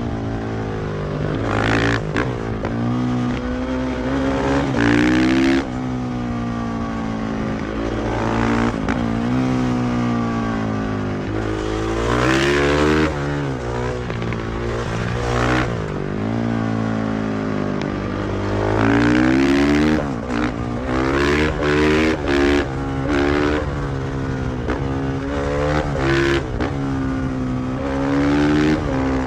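KTM 500 EXC-F supermoto's single-cylinder four-stroke engine, pulling up through the revs and dropping back several times as it is ridden through the gears. About two-thirds of the way through come a few short, quick throttle blips.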